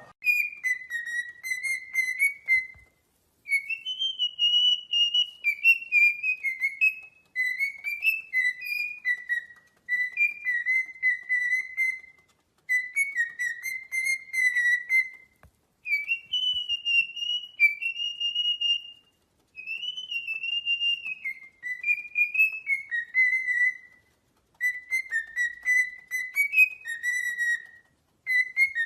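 Parrot whistling a tune, a clear warbling melody sung in phrases of a few seconds each with short pauses between them.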